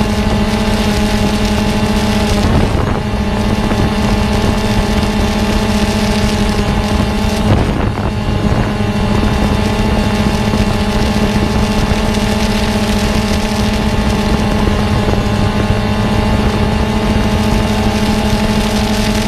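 A steady motor hum holding one constant pitch, briefly disturbed twice in the first half.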